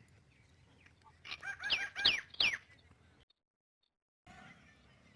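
A bird calling: a quick run of high calls, the three loudest close together, after which the sound cuts out completely for about a second.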